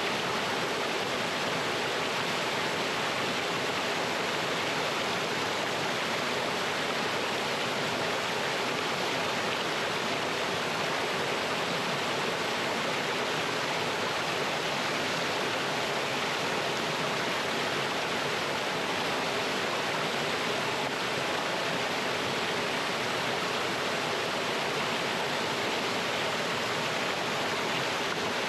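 Mountain stream water rushing steadily over rocks in a small waterfall, an even, unbroken rush.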